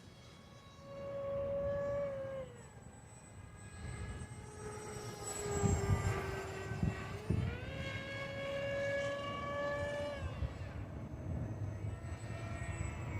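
HobbyZone AeroScout S2 RC plane's electric motor and propeller whining in flight, the pitch dropping and rising as the throttle is eased off and opened up again: high about a second in, lower from about 2.5 s, back up after about 7 s, and dropping again near 10 s. Wind rumbles on the microphone, most strongly through the middle.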